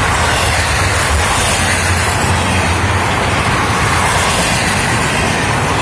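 Double-stack container well cars of a freight train rolling past close by: a loud, steady noise of steel wheels running on the rails, with a low hum underneath.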